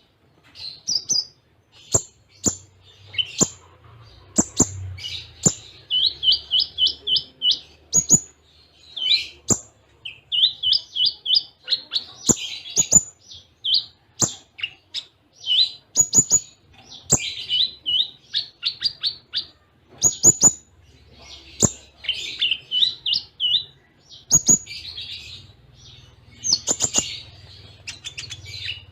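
Kolibri ninja (konin) sunbird singing: quick high chirps and fast trilled runs of repeated notes, cut through again and again by sharp clicking notes, with hardly a pause. A faint low hum lies underneath.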